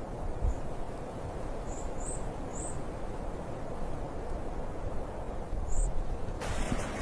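Wind blowing steadily with a low rumble. A few faint, short high chirps are heard, and near the end a louder hiss comes in suddenly.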